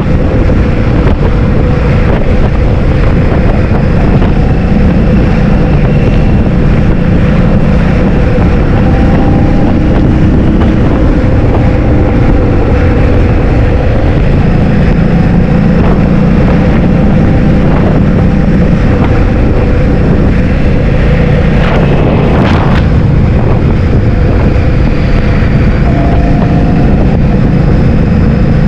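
Heavy wind buffeting the microphone while riding a scooter, over a steady motor hum. A few brief knocks come about three-quarters of the way through.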